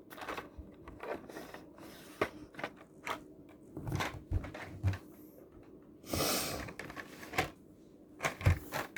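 Handling of a plastic-and-cardboard toy blister pack: scattered clicks, taps and light knocks, with a short rustle of the plastic about six seconds in.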